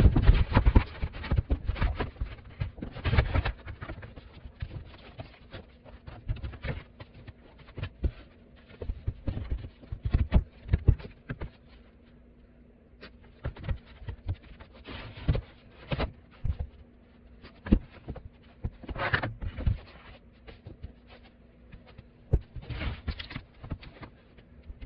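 Irregular knocks, thumps and scrapes of hands-on carpentry, boards and tools being handled and set in place, with a faint steady hum underneath.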